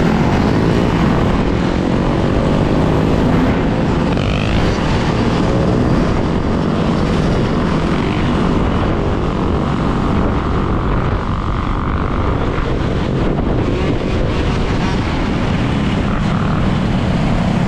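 Steady wind rush and road noise on a GoPro microphone while riding an electric dirt bike.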